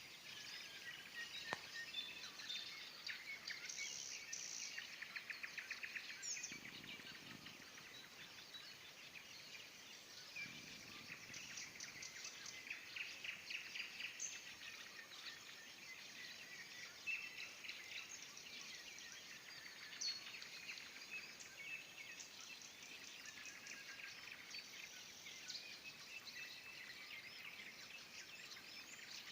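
Nightingale singing in phrases of rapid repeated notes and trills, one phrase after another, heard faint.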